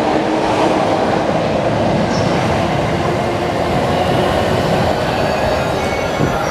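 E259 series Narita Express electric train pulling out of a station, its wheels running on the rails in a loud, steady rumble.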